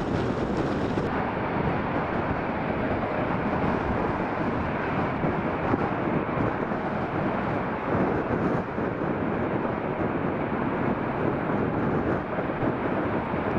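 Jet airliner's engines running, a steady, loud rumble without clear tones, heard under gusty wind.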